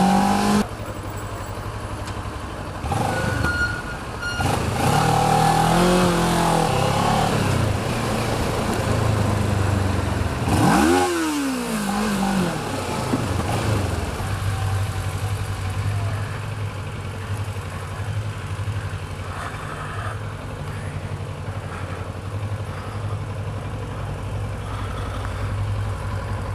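Kawasaki ER-6f parallel-twin motorcycle engine running in traffic. About midway it is revved hard once, the pitch shooting up and dropping straight back. For the rest it runs low and steady near idle.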